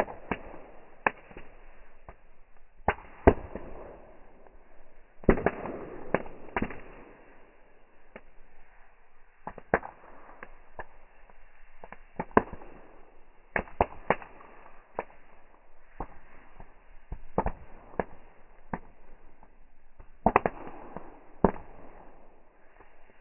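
Fireworks going off: irregular sharp bangs, some in quick clusters of two or three, a few trailing into a short lingering rumble.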